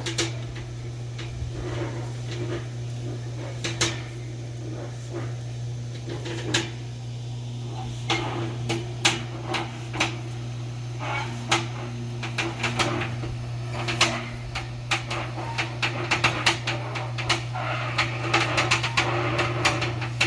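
Gutter installation work: irregular sharp knocks and taps, coming faster in a quick run of clicks near the end, over a steady low hum.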